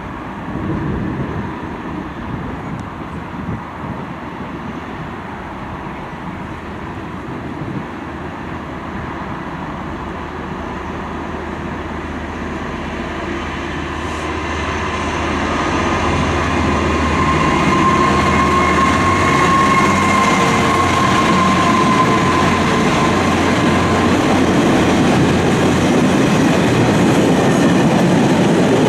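British Rail Class 66 diesel-electric freight locomotive, its two-stroke V12 diesel running, drawing near with a freight train. It grows much louder about halfway through and stays loud to the end as the train runs past, with a thin whine for a few seconds at its loudest.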